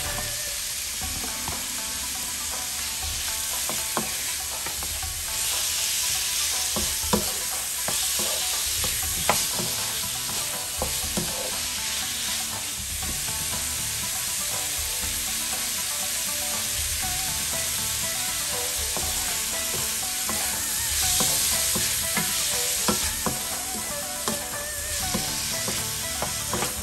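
Raw shrimp frying with onion, garlic and tomato in oil in a nonstick pan: a steady sizzle that swells louder twice as the pan is stirred. A wooden spatula scrapes and taps against the pan now and then.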